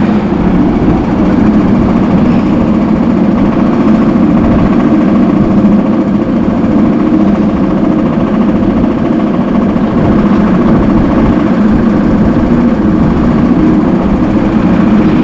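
Steady, loud mechanical rumble of the Montu inverted roller coaster train, heard from a rider's chest-mounted camera, with no change in level.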